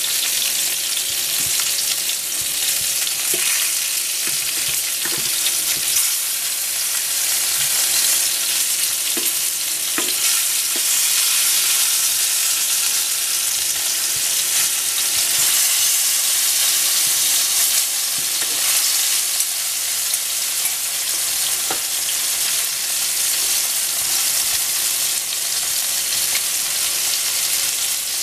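Pieces of fish frying in oil in a nonstick frying pan: a steady sizzle, with a few light clicks of a fork against the pan as the pieces are turned.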